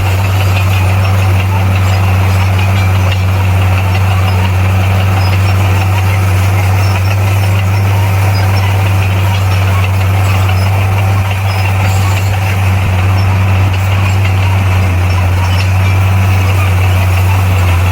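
Bulldozer's heavy diesel engine running steadily, a strong low hum that holds the same pitch throughout.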